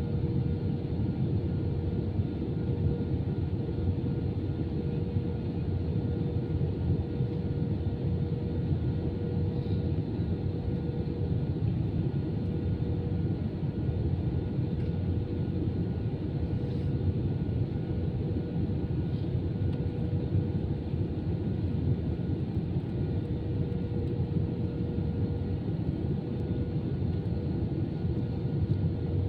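Steady cabin drone of an Airbus A320-214, from its CFM56 engines and the airflow, heard from inside the passenger cabin. It is a low, even rumble with a faint steady hum above it that holds throughout.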